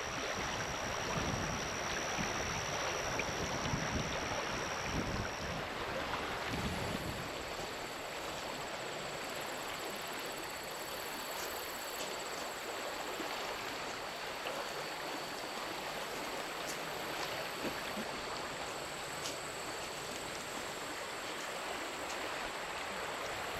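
Steady rushing of flowing river water, with wind buffeting the microphone for the first several seconds and a faint high-pitched steady tone throughout.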